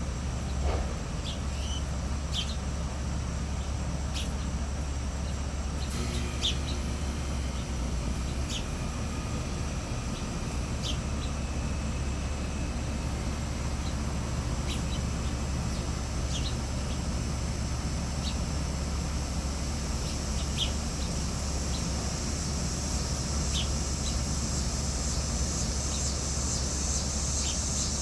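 Small birds at a feeder giving short, scattered chirps every second or two over a steady low rumble. A high, steady insect buzz comes up and grows stronger in the last third.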